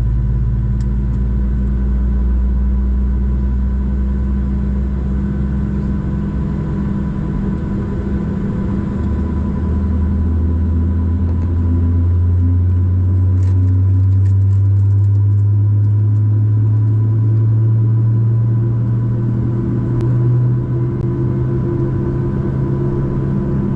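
Boeing 737-700 jet engines running with a steady, loud drone and a few fixed whining tones. Partway through, a low tone slowly rises in pitch as the engines change power.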